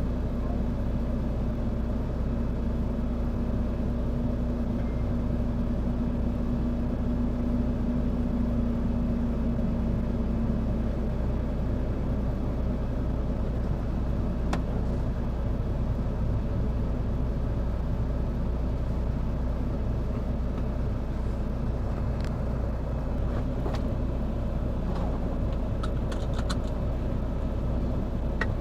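Steady low rumble of a running motor vehicle, with a faint steady hum that fades out partway through and a few light clicks near the end.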